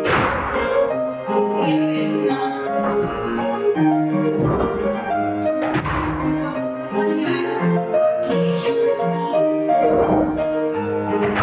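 Piano music playing a melody in even phrases, with a sharp knock every few seconds.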